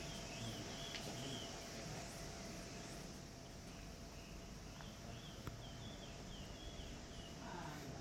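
Outdoor ambience: a small bird sings two runs of short, repeated chirping notes, the first just after the start and the second from about five seconds in, over a steady high insect-like hiss and a faint steady hum.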